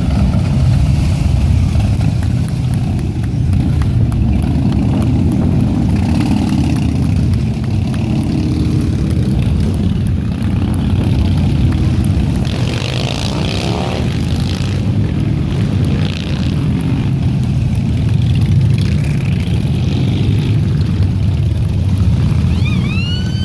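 Harley-Davidson V-twin motorcycles riding past in a steady stream, with a continuous low exhaust rumble. One engine revs up about halfway through.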